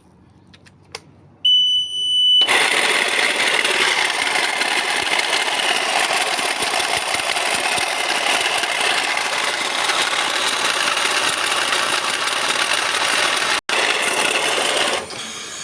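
Invacare Platinum 10 oxygen concentrator switched on: a short beep, then its pneumatic compressor starts abruptly and runs with a loud, harsh, rough noise, very unpleasant. The technician puts this down to bad compressor bearings.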